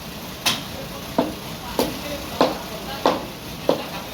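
Repeated sharp knocks, six of them about one every 0.6 seconds in a steady rhythm, like a tool striking wood.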